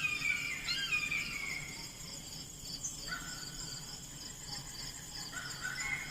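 Outdoor ambience: insects chirping in a steady, evenly pulsing rhythm, with high whistled calls that fall in pitch, repeated several times in the first two seconds and again near the end.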